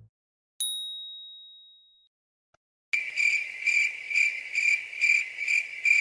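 A single bright ding about half a second in that rings out for over a second. From about three seconds in, a cricket-chirping sound effect at a steady two or so chirps a second: the comic 'speechless', awkward-silence cue.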